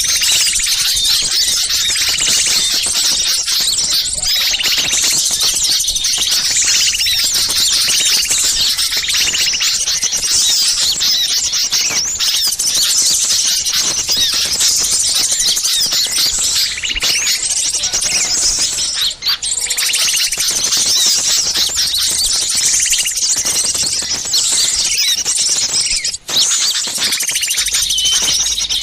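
A dense, loud chorus of small songbirds chattering and chirping excitedly, many quick high calls overlapping without a break: a bird-lure recording of agitated small birds, the kind played to draw wild birds in.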